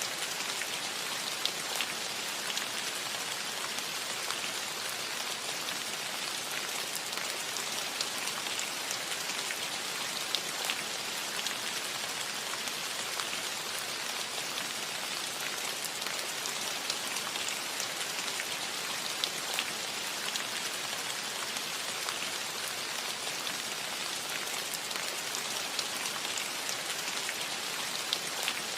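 Steady rain falling on a metal roof: an even hiss of rain with scattered sharper drop hits.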